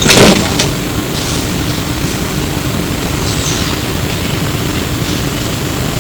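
Cabin noise aboard a Flyer E902 electric trolleybus: a steady running rumble with a faint steady hum. A brief loud rush of noise comes right at the start.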